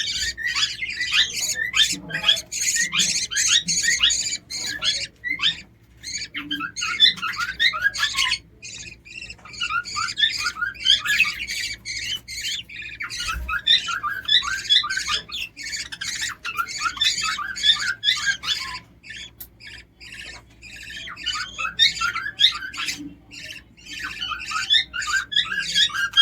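Lovebirds squawking and chirping in rapid, shrill runs of short calls, with a few short lulls between runs.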